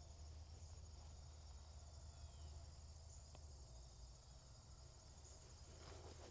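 Faint, steady chorus of crickets trilling high over a low, steady rumble, with a footstep or two near the end.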